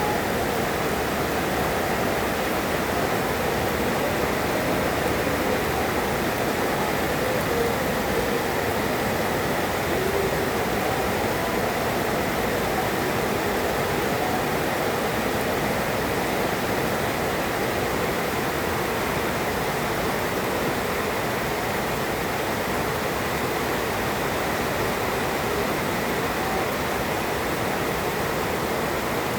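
Heavy rain falling steadily, an even rushing hiss with no thunderclaps.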